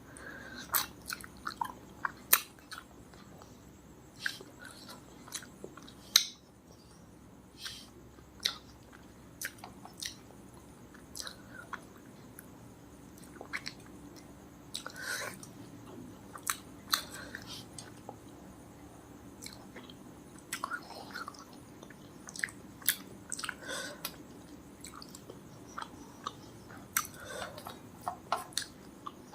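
A person chewing food close to the microphone: irregular wet smacking and sharp mouth clicks, some much louder than the rest.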